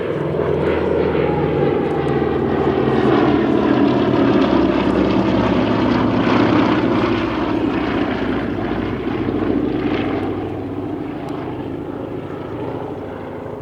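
Radial-engined propeller aircraft flying past: the engine sound swells, peaks in the middle, then fades away.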